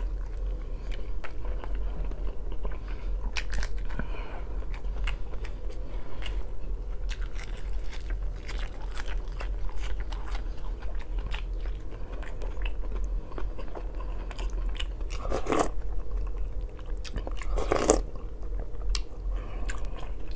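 Close-up chewing and biting of a mouthful of dark rye bread, with wet mouth clicks and light crunches, over a steady low hum. Two louder brief noises come late on.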